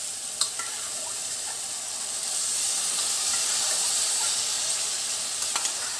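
Sizzling as boiled chana dal and its cooking water are ladled into hot oil and masala in a stainless steel kadai. A few sharp clinks of a steel spoon against the pot come through. The sizzle swells about two seconds in.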